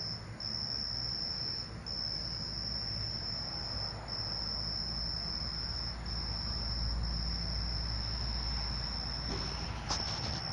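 Night insects trilling: one steady high-pitched trill held in long stretches with short breaks every second or two, over a low steady rumble. A brief click near the end.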